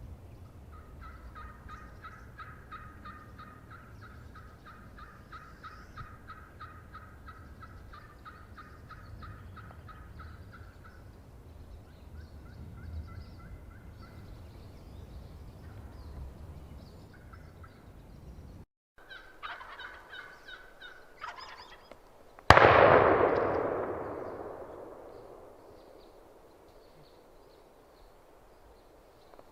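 Turkey calling: a long run of evenly paced call notes, then shorter phrases. About 22 seconds in, a single shotgun blast goes off and echoes away over several seconds; it is a shot at a tom that misses cleanly.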